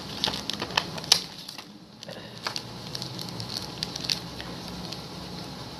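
Plastic packaging crinkling and rustling as it is handled, with a quick run of sharp crackles in the first second, a short pause, then softer crinkling.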